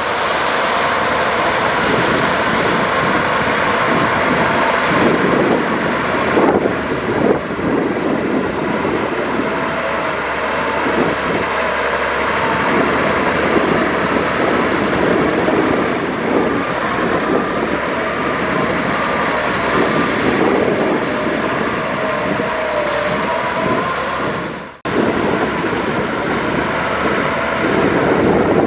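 Heavy diesel earthmoving machinery, a bulldozer and dump truck, running continuously, its engine note wavering up and down. The sound cuts out for an instant near the end.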